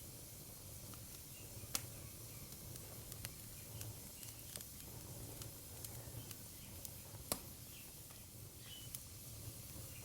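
Wood fire crackling: scattered sharp pops and snaps, two louder ones about two and seven seconds in, over a low steady rumble and hiss of burning.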